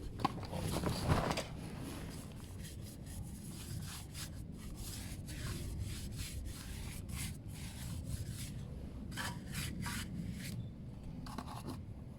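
Scouring pad scrubbing a stainless steel motorcycle exhaust pipe coated in Harpic toilet cleaner, in repeated short rubbing strokes, with a louder scrape about a second in.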